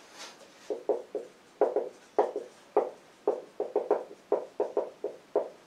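Writing on a board: a quick, irregular run of short taps and strokes, about twenty of them.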